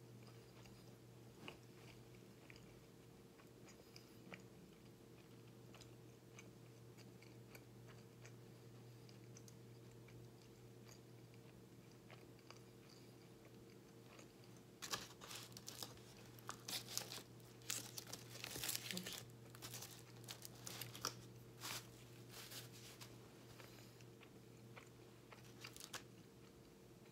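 Close-miked chewing of a bagel sandwich with faint mouth clicks. About halfway through comes a run of louder, sharp crinkling and crunching as the sandwich is handled on its foil wrapper.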